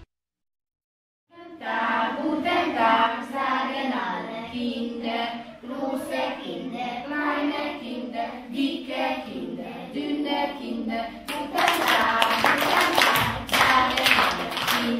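After about a second of silence, a class of young children sings a song together in a classroom. From about eleven seconds in, they clap their hands along with the singing.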